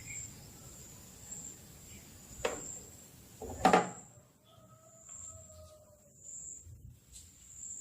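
Two short knocks about a second apart, the second louder, from a Vespa mirror stem being unscrewed and lifted off. A steady high insect drone, like crickets, runs underneath.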